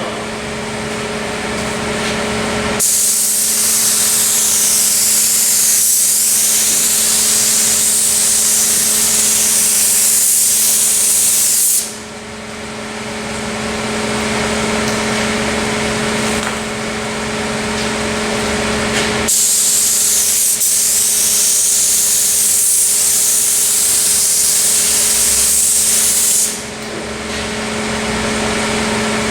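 Compressed-air paint spray gun set at about 40 psi, spraying in two long hissing passes of roughly nine and seven seconds. The first starts about three seconds in and the second just past the middle, over a steady low hum.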